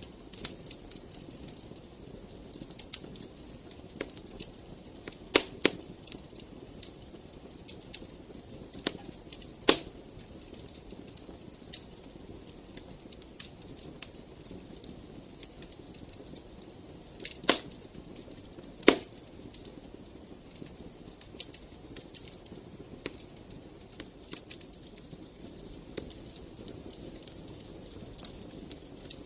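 Wood fire crackling in a fireplace: a steady low hiss of burning with frequent small snaps and a few much louder pops scattered through.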